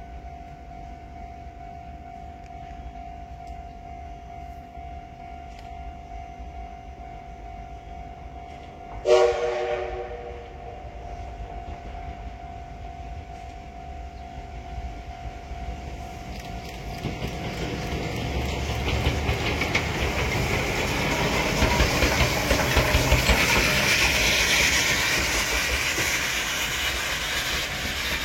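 A train sounds one short horn blast, then a train approaches and runs past with its wheels clattering rhythmically over the rail joints, growing louder in the second half.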